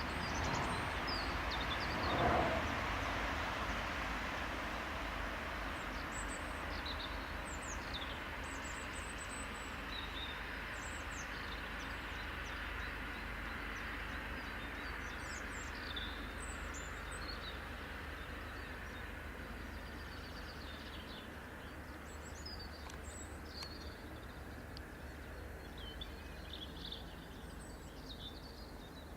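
Train on the Rhine line, its running noise fading slowly as it moves away, while songbirds chirp repeatedly.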